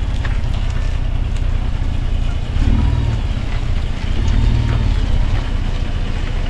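A vehicle's engine running, a steady low rumble that swells twice.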